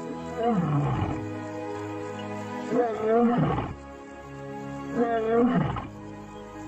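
Lion roaring: three long, loud calls about two seconds apart, each falling in pitch, over steady background music.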